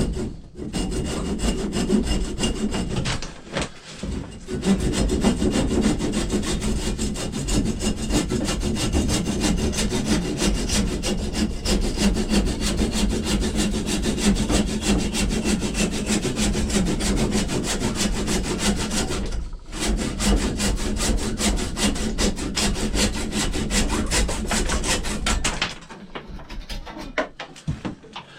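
Saw cutting through wood, trimming off the excess axe handle and wedge at the head, in quick repeated strokes. It pauses briefly twice and stops shortly before the end.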